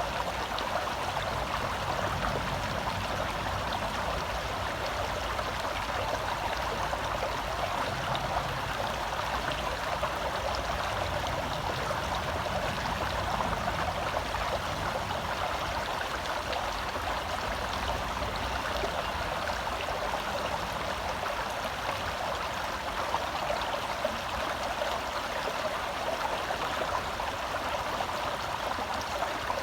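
Shallow forest stream flowing over rocks, a steady rushing babble close by.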